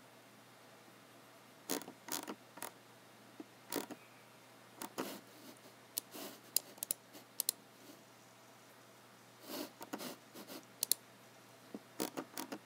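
Irregular clicks and short sliding or rubbing sounds from hands working a computer mouse and keyboard, with pauses of a second or so between groups.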